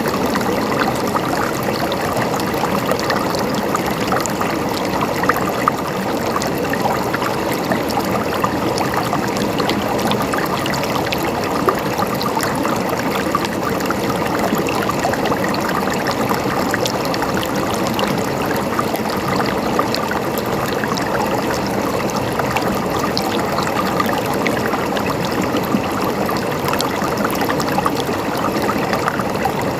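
River water running steadily over rocks, a constant rushing with small splashes and trickles throughout.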